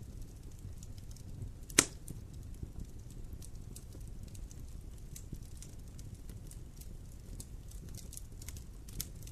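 Wood campfire burning and crackling, with many small snaps and one sharp, loud pop about two seconds in and a smaller one near the end, over a low steady rumble of the flames.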